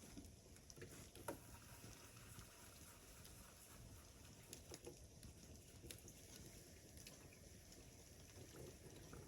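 Near silence: faint background hiss with a few scattered faint clicks, one slightly more distinct about a second in.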